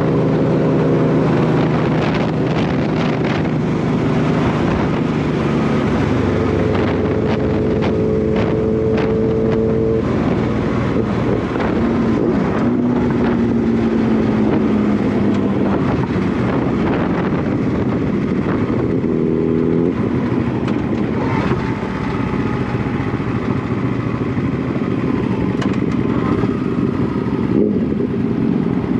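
1998 Honda VT1100 Shadow Ace's 1100 cc V-twin engine running under way, with wind rushing over the microphone. The engine note shifts in pitch several times as the bike changes speed and gears, rising near the end.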